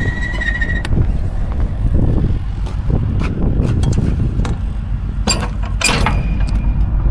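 Semi truck's diesel engine idling steadily, with scattered clicks and knocks over it, a cluster of them about five to six seconds in.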